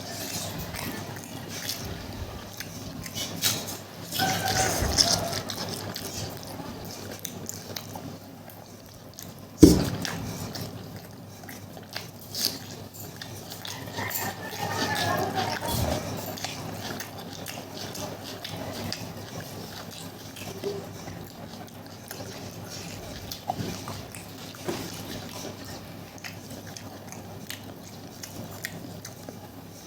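A person eating Maggi noodles and egg curry, with wet chewing, mouth smacking and slurping. A single sharp knock comes about ten seconds in.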